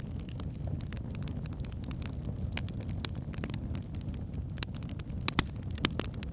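Wood fire burning in a fireplace: a steady low rumble of flames with irregular crackles and pops from the logs, a few louder pops near the end.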